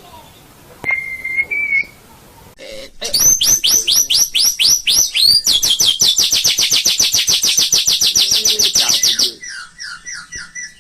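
White-rumped shama singing: a short clear whistle, then a run of quick downward-sliding notes that runs into a long, very fast trill, ending in softer, lower repeated notes.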